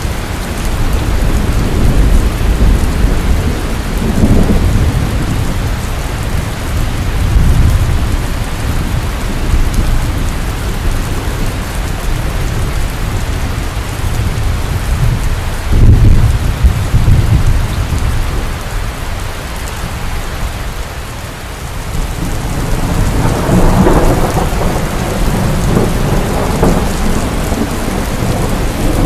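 Heavy rain falling steadily with rolling thunder. A sudden sharp thunderclap about halfway through is the loudest moment, and more rumbling builds again near the end.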